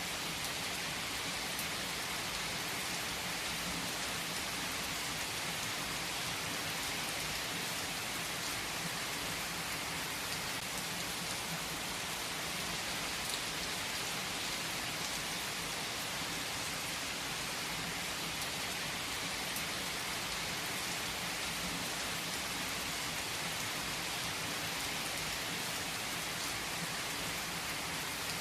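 Steady rain falling on a surface, an even hiss with scattered drop ticks and no change in intensity.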